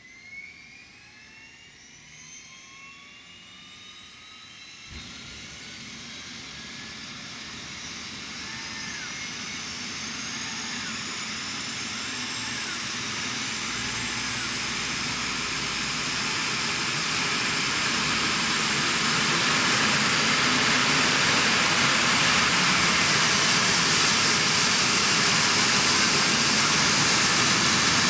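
BK117 helicopter's turbine engine spooling up: a whine that climbs steadily in pitch and grows louder for about twenty seconds, then holds at a loud, even level.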